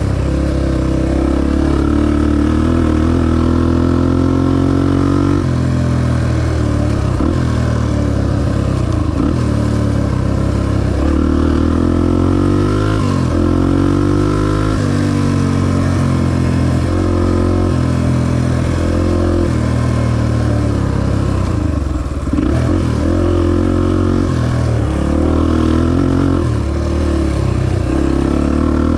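Honda XR250 dirt bike's single-cylinder four-stroke engine running under load, its pitch rising and falling repeatedly as the throttle opens and closes through the gears.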